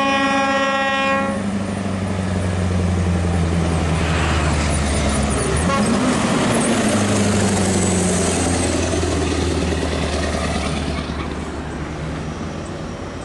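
A heavy truck's horn sounds for just over a second, then the truck's diesel engine runs loudly under load, its pitch rising and falling briefly about halfway through.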